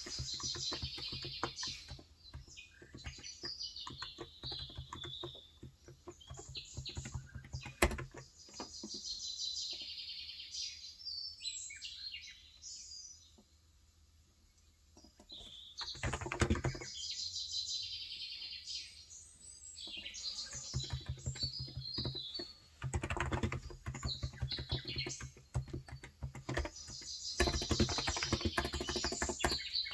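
Typing on a Cox Endeavor electro-capacitive (Topre-style) tenkeyless keyboard with 35 g switches: runs of soft keystrokes that thin out to a pause midway. Birds chirp in the background through much of it.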